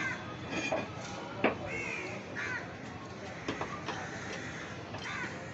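A bird cawing several times in short, arched calls, with a single sharp knock about a second and a half in.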